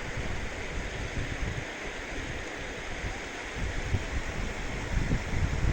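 Steady outdoor rushing noise, with wind buffeting the microphone in low gusts that grow stronger near the end.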